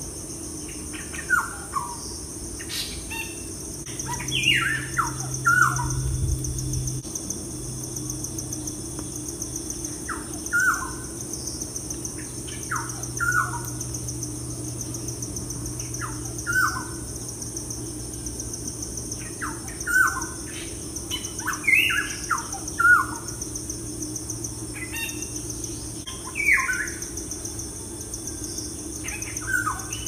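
Birds chirping in short, quick falling calls, singly or in little runs every few seconds, over a steady high-pitched drone.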